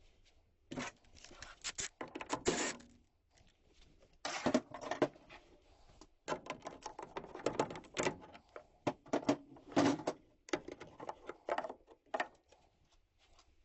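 Irregular clicks, knocks and scraping of hand work on a gas furnace: tools and sheet-metal parts being handled in short bursts.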